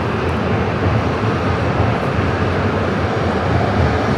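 E5 series Hayabusa shinkansen moving along the platform: a steady, loud running rumble of its wheels and running gear.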